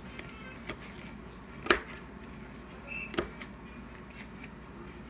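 A kitchen knife chopping food on a cutting board: a few sharp separate knocks, the loudest about a third of the way in.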